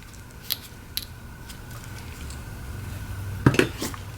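A few light clicks and taps from small parts and tools being handled on a work bench, the loudest two or three close together about three and a half seconds in, over a steady low hum.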